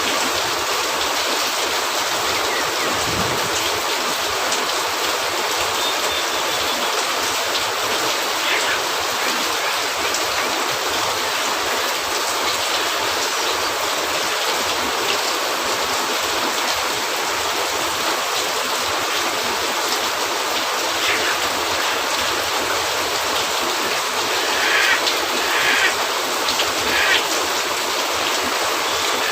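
Steady rain on a cabin roof, a dense even hiss, mixed with a few short crackles and pops from a wood fire, the loudest cluster of pops near the end.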